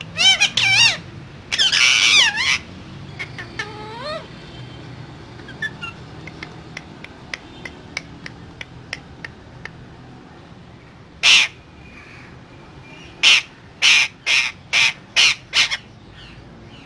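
Pet parakeets calling: two loud warbling calls in the first few seconds and a short rising call, then scattered light clicks, one harsh squawk, and a quick run of about six harsh squawks near the end.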